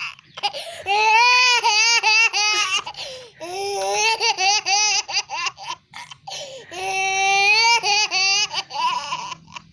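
A small child laughing and babbling in high-pitched squeals, in three long stretches with short breaks between them.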